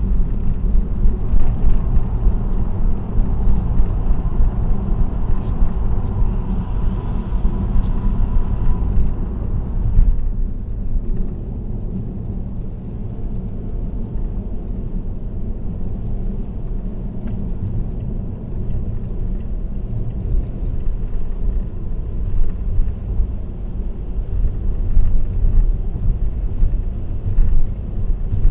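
Steady road and tyre noise with a low rumble from a car cruising on an expressway, picked up by a dashcam inside the car. The higher hiss eases a little about ten seconds in.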